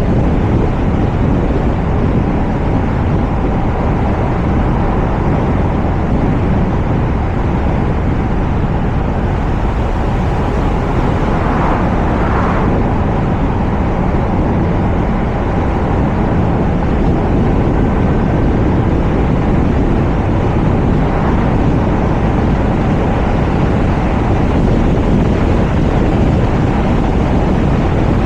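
Wind noise on a roof-mounted camera's microphone on a moving car, mixed with road and tyre noise: a loud, steady rush with no break. There are faint brief sounds about twelve and twenty-one seconds in.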